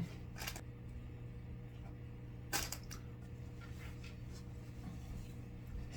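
Small assembly parts being handled: a light click about half a second in and a louder cluster of clicks and clatter about two and a half seconds in, over a steady low hum.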